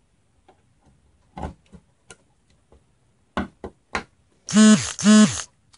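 Sharp plastic clicks and knocks of RAM sticks being pressed into motherboard memory slots, about six in all. Near the end come two short, louder vocal exclamations, each falling in pitch.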